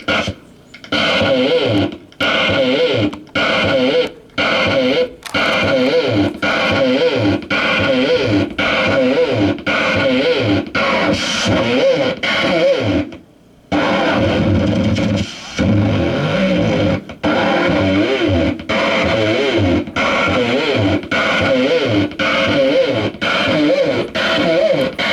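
Loud, heavily effected psychedelic noise music: a warbling, distorted drone chopped into stuttering pulses about once a second. It drops out briefly about 13 seconds in.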